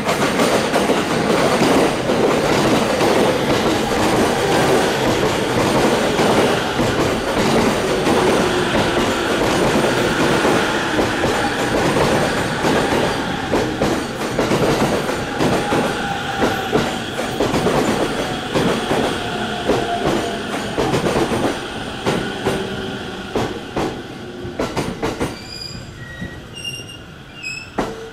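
Electric commuter train pulling in and slowing to a stop: wheels clacking over rail joints under a whine that slowly falls in pitch, the whole sound fading over the last few seconds as the train comes to rest, with a few short high tones near the end.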